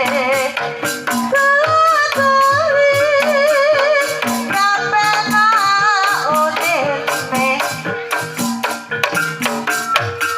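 Banyumasan tayub gending: a sinden's ornamented female vocal with wavering vibrato over a Javanese ensemble of struck tuned percussion and drum, with steady sharp percussive strokes throughout.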